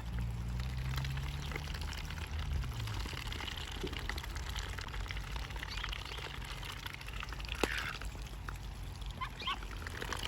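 Ducks dabbling and splashing in water as they feed, a dense, even patter of small splashes and bill clicks, with a few short calls in the last few seconds.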